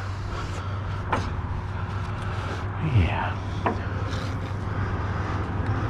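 Rubbing and scraping handling noise, with a couple of sharp knocks, over a steady low hum.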